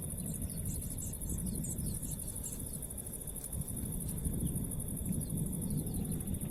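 Insects trilling steadily in the bush, a fast high pulsing trill with a second thinner steady tone beneath it, a few short chirps in the first couple of seconds, over a low rumbling noise.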